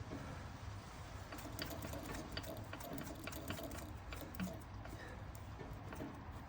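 Small metal lathe running steadily while a 1/8 inch drill cuts into a model-engine cylinder cap, with a run of light metallic ticks and clicks in the middle.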